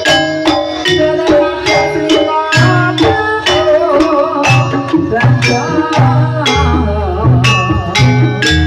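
Live jaranan ensemble music: hand drums and struck pitched percussion keep a steady beat, with a wavering melody line above.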